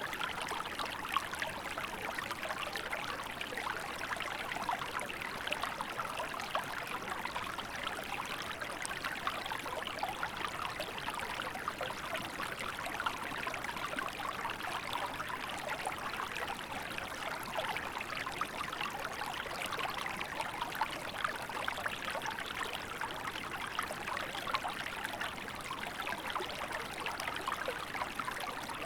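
Small river flowing and burbling steadily in winter, with fine splashing and trickling detail and no let-up.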